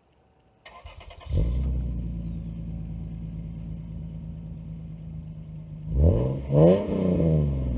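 1998 Lexus SC300's 2JZ-GE straight-six cranks briefly and starts, then idles steadily through its exhaust. Near the end it is blipped twice, revving up and dropping back to idle.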